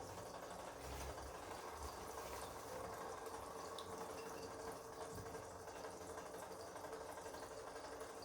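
Bosch Komfort-Klasse front-loading washing machine running during a wash: a faint, steady hum with water moving inside the drum.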